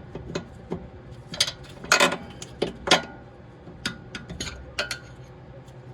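Irregular metal clinks and knocks, about a dozen sharp ones, as a suspension bolt and hand tools are handled while the bolt is fitted back through the front strut mount. The loudest knocks come about two and three seconds in.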